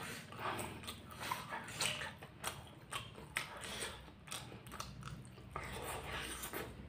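Close-miked eating: chewing and biting into fried egg balado, rice and raw chilies, with irregular crunches and wet mouth clicks and smacks.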